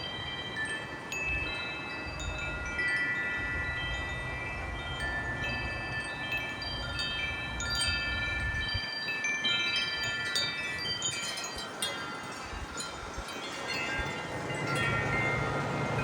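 Wind chimes ringing in gusty wind, struck again and again, with many overlapping long-ringing notes; around the middle a flurry of quicker, higher strikes. Wind rumbles on the microphone through the first half and again near the end.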